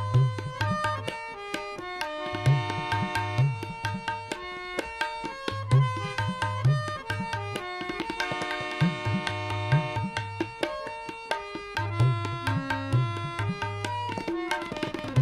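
Instrumental interlude of Sikh kirtan: a harmonium plays held melodic notes over a steady tabla rhythm, with no singing.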